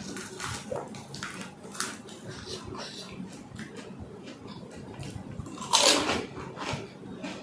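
Close-miked sounds of filling and eating pani puri: scattered small clicks and crunches of the crisp shells with wet liquid sounds, and one louder, longer crunch about six seconds in.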